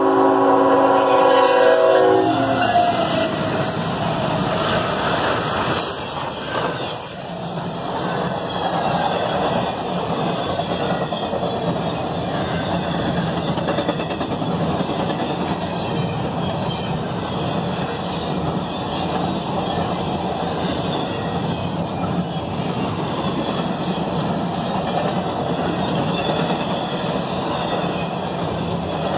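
Freight locomotive horn sounding a multi-note chord that cuts off about two seconds in. Then a long CSX intermodal train of stacked containers and trailers rolls past close by with a steady rush and rumble of wheels on rail.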